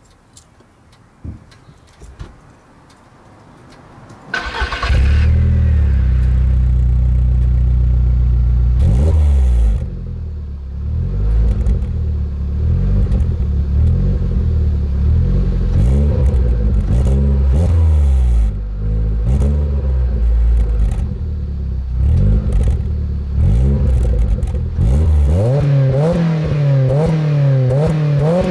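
VW Lupo GTI's 1.6-litre four-cylinder engine through a Janspeed stainless steel cat-back exhaust, starting about four seconds in and idling steadily, then revved in repeated blips that rise and fall, coming quicker near the end.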